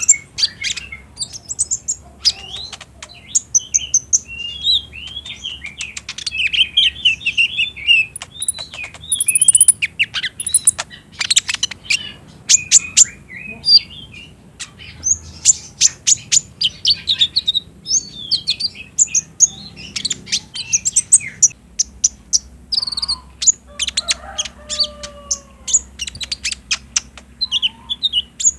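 Van Hasselt's sunbird singing a rapid, stuttering 'trotol' song: fast runs of high, thin chirps and twittering trills in short bursts with brief pauses.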